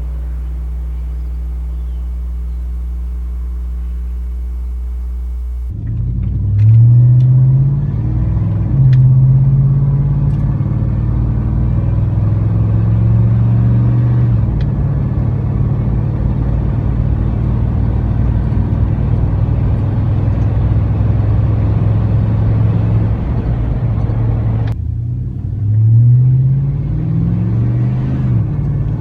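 A 1999 Chevrolet Silverado's 5.3L V8 runs through a Cherry Bomb chambered muffler. It idles steadily for about six seconds, then accelerates, its exhaust note rising in pitch twice as it climbs through the gears, and settles into a steady cruising drone. Near the end it accelerates again with two more rises in pitch.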